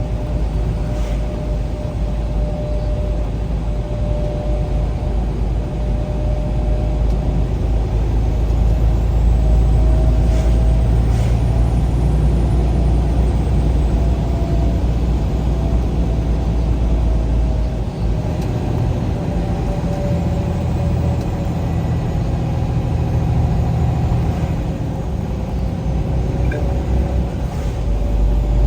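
A vehicle being driven along the road: a steady low engine and tyre rumble with a faint whine that wavers slightly in pitch, a little louder for a stretch in the middle.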